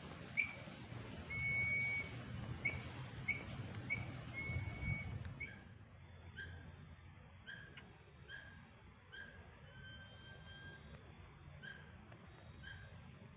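Forest ambience: a bird repeating short whistled notes about once or twice a second, a few held longer, over a steady high insect drone.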